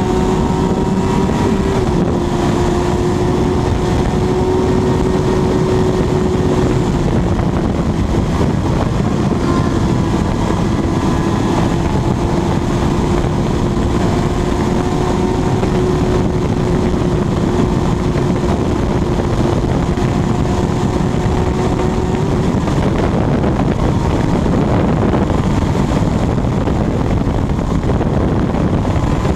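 Kawasaki Ninja motorcycle engine held at high, steady revs at full throttle, its tone almost buried under heavy wind rush on the microphone at very high speed. The engine tone fades about three-quarters of the way through, leaving mostly the wind.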